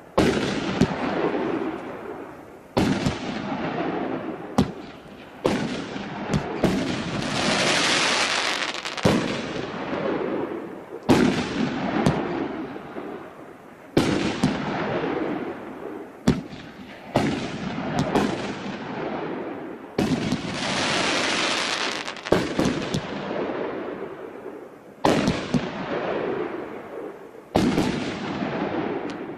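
Cosmos Armageddon 24-shot, 50 mm firework battery firing. Sharp bangs come about every one to two seconds as the shells burst, many of them followed by a few seconds of hiss as the stars burn out.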